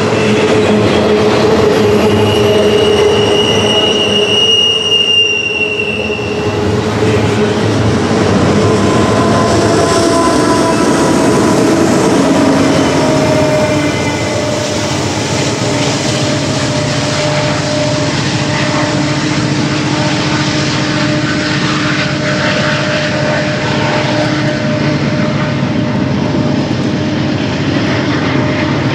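Intermodal freight train's cars rolling past on a curve into a tunnel, with a high wheel squeal for a few seconds near the start. After the last car disappears, a steady low rumble and drone carries on from the train inside the tunnel.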